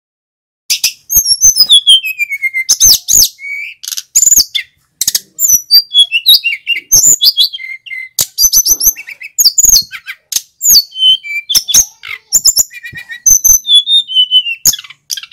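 Male sikatan gunung (mountain flycatcher) singing a fast, loud, varied song of high whistled notes, chatters and trills, some notes sliding downward in pitch. It starts about a second in.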